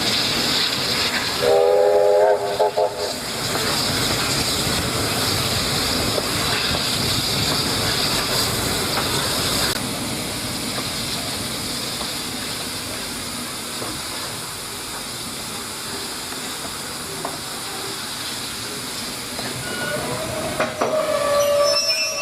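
Steam locomotive passing with steam hissing, and a short whistle blast about two seconds in. The sound then fades over the following seconds, with another brief tone near the end.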